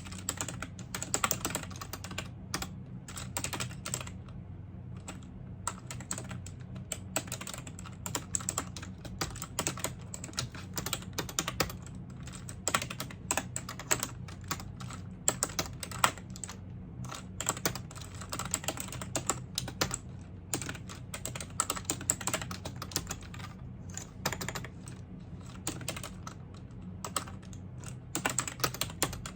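Continuous typing on a computer keyboard: quick, irregular key clicks with scattered louder strokes, over a steady low hum.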